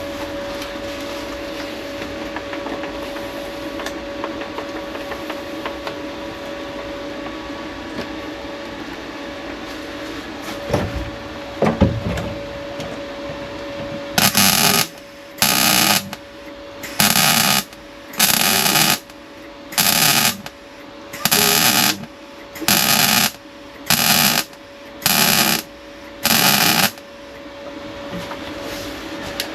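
A welder laying about ten short bursts of weld in quick succession on a steel repair piece, each a harsh crackle under a second long, starting about halfway through. Before that there is a steady background hum and a couple of knocks.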